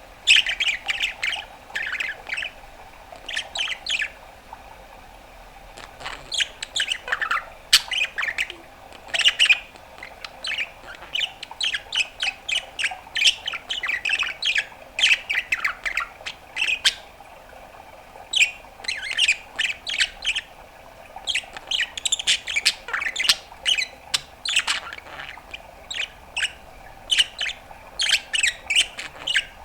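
Budgerigar chattering: rapid runs of short chirps, squawks and warbles in bursts with brief pauses.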